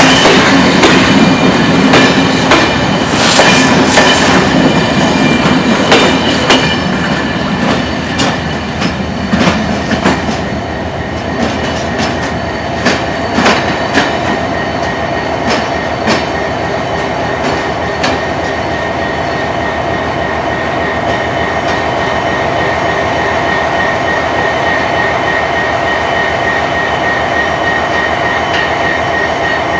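Passenger coaches rolling past close by, the wheels clicking sharply over the rail joints. After about ten seconds the clicks thin out and the train sound settles into a quieter, steady rumble with a thin high whine.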